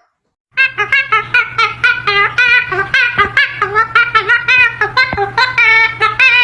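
Parrot laughing: a long unbroken run of rapid, high-pitched 'ha-ha' syllables, about five a second. It starts abruptly about half a second in.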